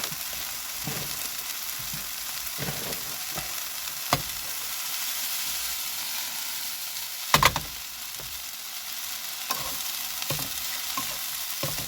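Rice and fried peppers, mushrooms and onions sizzling in a frying pan as they are stirred and heated together. Scattered short knocks run through it, with the loudest cluster about seven seconds in.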